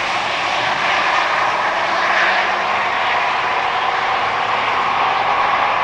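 Engines of drag racing vehicles running hard down the strip, a loud, steady sound with no clear gear changes.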